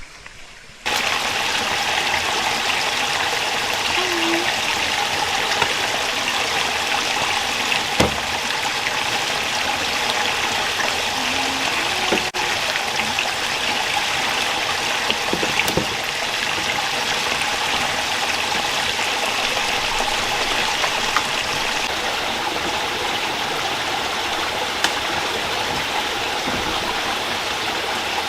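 Rocky stream rushing steadily, starting abruptly about a second in, with a few faint knocks.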